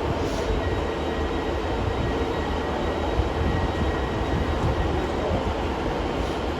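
Class 150 diesel multiple unit running, a steady rumble of diesel engines and wheels on the rails.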